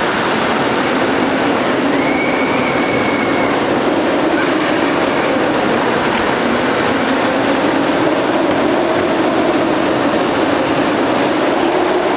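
River rapids water ride: a steady rush of churning water with a wavering mechanical drone from the ride's machinery underneath. A brief thin high tone sounds about two seconds in.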